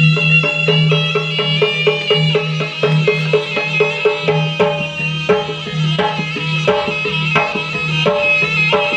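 Jaranan music: a reedy shawm-like wind instrument holding a high, sustained melody over steady, quick hand-drum strokes, about three a second, with a repeating low gong-like pulse.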